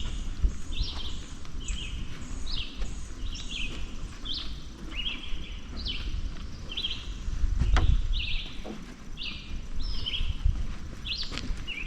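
Birds calling in a continuous run of short chirps, about two a second, over a low rumble, with a single knock about eight seconds in.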